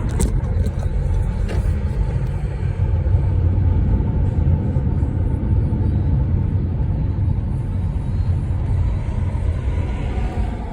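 Car driving: a steady low road rumble with no breaks.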